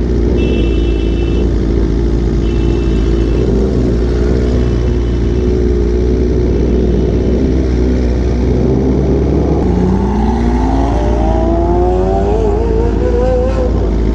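A motor vehicle engine runs steadily under a heavy rumble, then accelerates from about ten seconds in, its pitch rising smoothly for the last few seconds.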